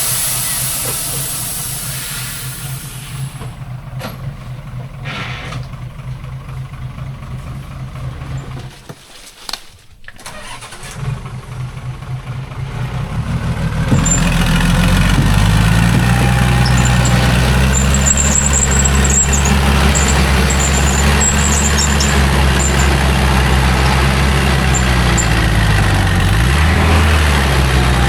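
Heavy logging truck engine idling, dying away about a third of the way in. It then runs much louder from about halfway, its pitch drifting slowly and dipping briefly near the end.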